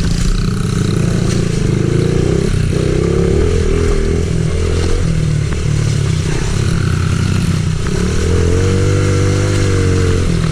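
Pit bike engine being ridden on a trail, its revs rising and falling, then held steady for a couple of seconds near the end.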